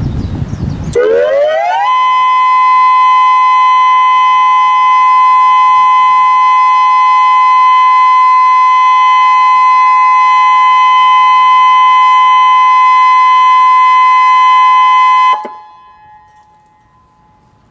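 Federal Signal Modulator 6024B electronic outdoor warning siren sounding its steady tone on test. The pitch rises over about a second, holds one loud steady tone for about thirteen seconds, then cuts off suddenly.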